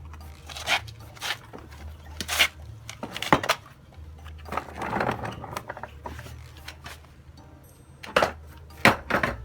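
Scattered sharp knocks and clatters, about six in all, over a low steady hum.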